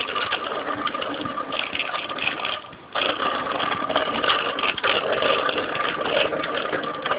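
Steady mechanical whirring with a constant high tone, dropping out briefly just under three seconds in.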